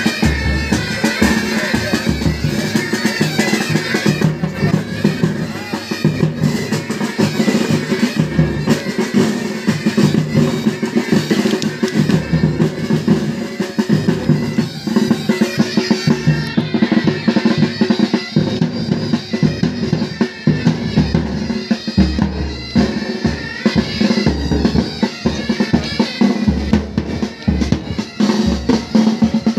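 Pipe band playing: Highland bagpipes sound a melody over steady drones, with side drums and a bass drum beating dense, rapid strokes throughout.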